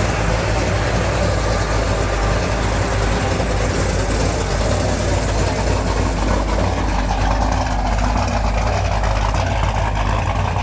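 Car engine idling steadily, with a strong low rumble.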